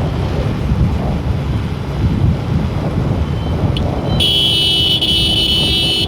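Wind buffeting the microphone over steady road and engine rumble while riding a motorcycle. About four seconds in, a horn sounds as one steady blast of about two seconds, after a short toot just before it.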